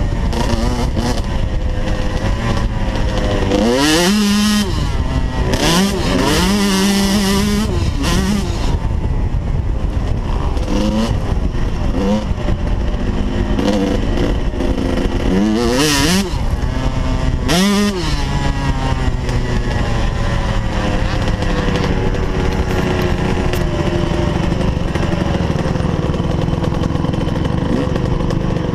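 Small motocross bike engine revving hard through the gears: its pitch climbs and drops back again and again, then it runs more steadily near the end.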